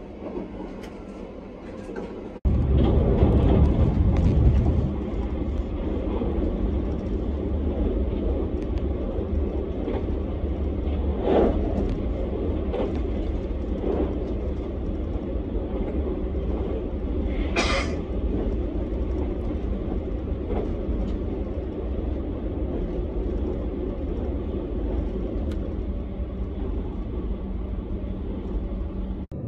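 Running noise of a JR Kyushu 787 series electric train heard from inside the car at speed: a steady low rumble of wheels on rail. It is quieter at first, then abruptly louder a little over two seconds in, with a few short knocks around eleven seconds in and a brief high-pitched sound near eighteen seconds.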